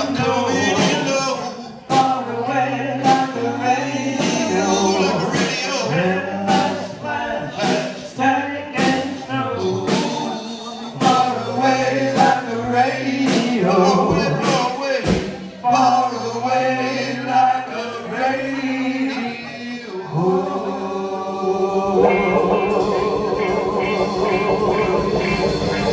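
Band playing a rock song with a male lead singer and drums. About twenty seconds in, the singing and drum hits stop and the band holds a long sustained chord, typical of a song's closing.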